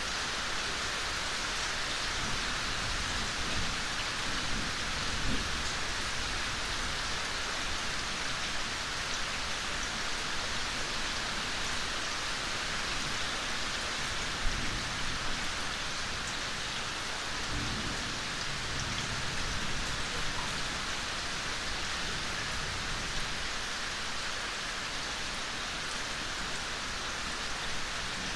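Steady soft rain falling, an even hiss of many drops, with a few low rumbles underneath and one sharper drop about halfway through.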